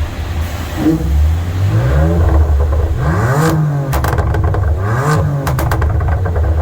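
BMW M4's S55 twin-turbo straight-six, breathing through a stainless steel exhaust with a single midpipe, revved up and dropping back about three times. From the middle of the sound on, crackles and pops come from the exhaust as the revs fall.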